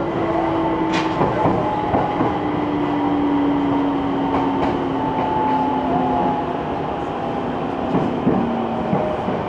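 Electric train running noise: a steady rumble with a few hum tones slowly falling in pitch, and a handful of sharp clicks.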